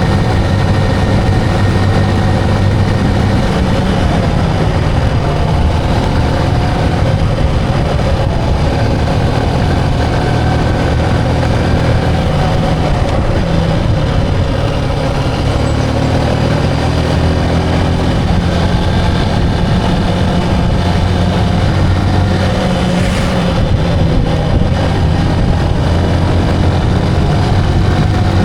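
Motorcycle engine running on the move, its pitch shifting up and down as the revs change, over steady road and wind noise.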